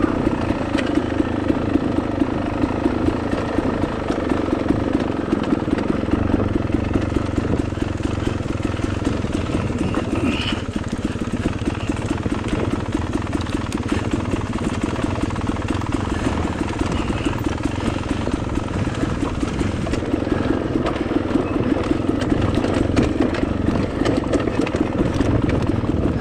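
Dirt bike engine running steadily while being ridden, with many small knocks and clatter over the top.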